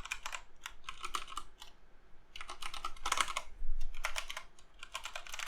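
ErgoDox EZ mechanical keyboard being typed on, with its keys clicking in several quick bursts separated by short pauses.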